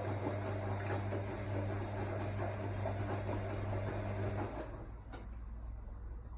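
AEG Lavamat L62850L washing machine running with a steady electric hum that stops about four and a half seconds in, followed by a single click.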